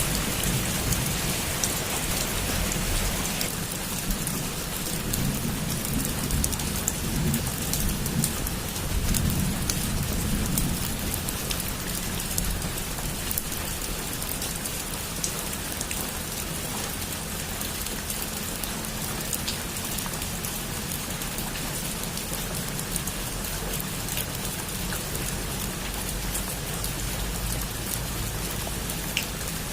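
Heavy rain falling on a roof: a steady hiss dotted with the patter of individual drops. A low rumble of distant thunder rolls through the first ten seconds or so.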